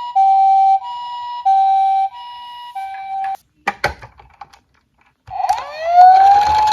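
Two-tone hi-lo emergency siren alternating between a lower and a higher pitch about every 0.6 s, stopping abruptly about three and a half seconds in. A few clicks follow, then a wailing siren winds up in pitch near the end and holds, over a rushing noise.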